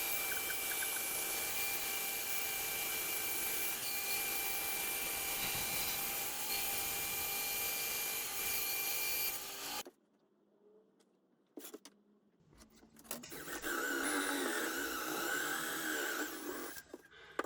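Bandsaw running with a steady whine as it cuts through wood. It stops abruptly about ten seconds in, and after a few seconds of near silence a second stretch of power-tool noise on wood follows, its pitch wavering.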